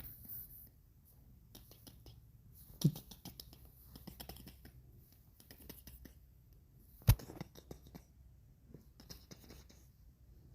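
Light scratching and small ticks, with two sharp knocks about three seconds and seven seconds in.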